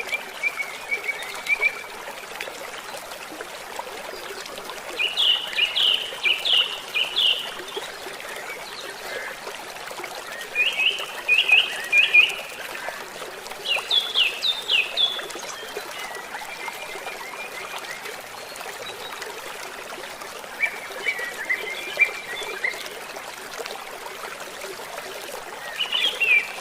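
A songbird singing short phrases of quick high notes, repeated every few seconds, over the steady rush of flowing water.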